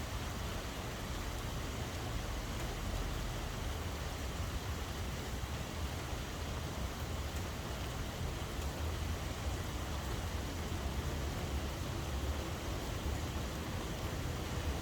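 Steady rain falling, an even hiss without distinct drops, over a continuous low rumble.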